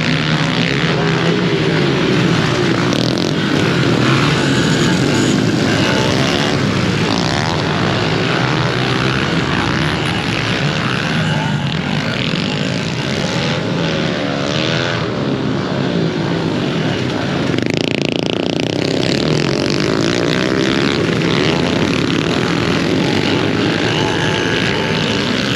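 A pack of pit bikes racing, many small engines revving up and down together and overlapping.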